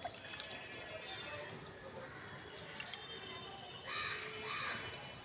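House sparrows bathing: scattered short chirps over a light trickle of water, with two bursts of splashing about four seconds in.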